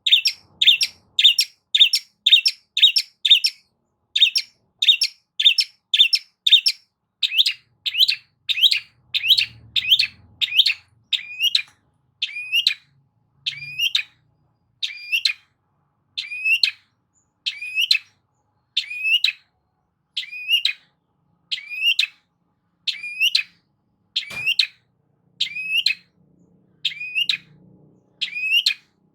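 Long-tailed shrike (cendet) calling in a long series of short, sharp notes, each hooking upward at the end. The notes come about two a second at first and slow to about one a second in the second half.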